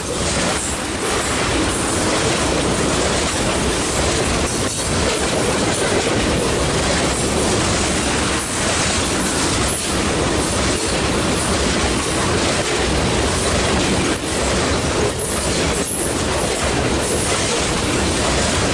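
Loaded ethanol tank cars of a freight train rolling past, a steady rumble and clatter of steel wheels on the rails.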